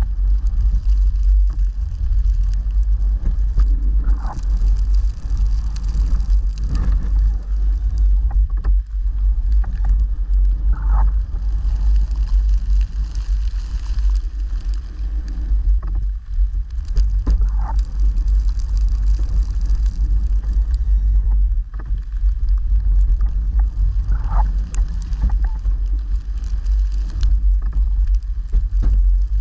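Snowplow truck running as it plows, a steady loud low rumble, with brief higher-pitched squeaks now and then.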